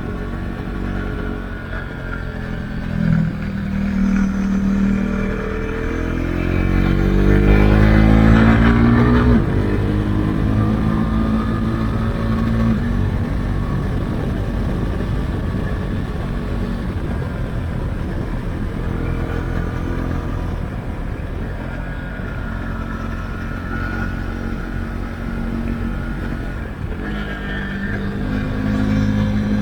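Husqvarna Svartpilen 401's single-cylinder engine through an Akrapovic exhaust with its dB-killer removed, revs rising steadily from about six to nine seconds in as the bike accelerates, then running at steadier revs, with the revs climbing again near the end.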